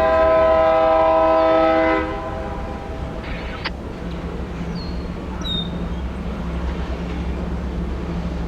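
Diesel locomotive air horn sounding one blast of about two seconds, a chord of several notes, followed by the steady low rumble of the locomotive's engine running.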